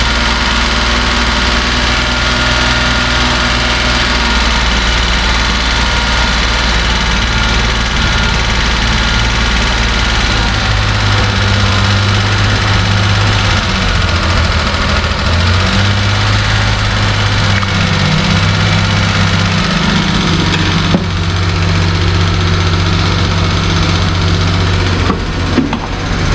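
Suzuki Carry / Mazda Scrum kei truck's 660 cc three-cylinder engine idling, its idle speed stepping up and down several times rather than holding steady: the unstable idle being chased. A couple of sharp clicks are heard, one past the middle and one near the end.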